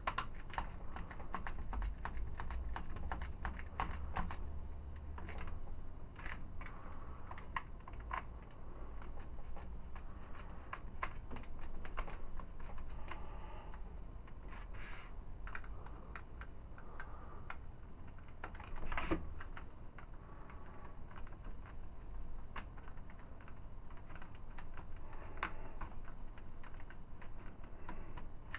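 Light, irregular clicks and taps of a small screwdriver working screws into a plastic Gigapower Gutter toy figure as its parts are handled, with one louder click about two-thirds of the way through.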